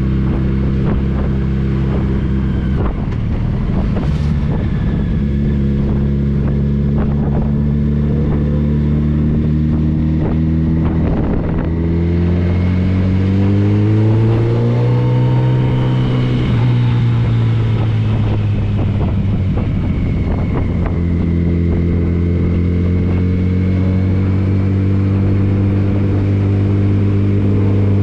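Touring motorcycle engine running steadily while riding, with wind noise. About midway the revs climb, then fall back and hold steady.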